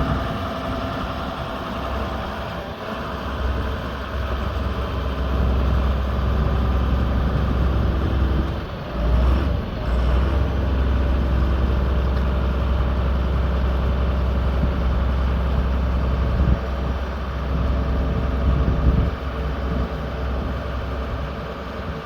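Iveco Eurocargo 100E18 truck's diesel engine idling steadily, with a brief dip about nine seconds in.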